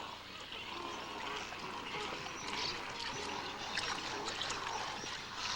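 Shallow water trickling and splashing, with many small scattered splashes and ticks.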